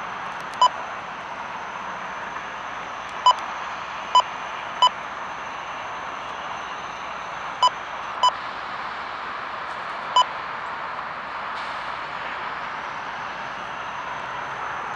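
Steady rolling noise of a passing CSX auto train of autorack cars. Seven short electronic beeps come through it at irregular intervals.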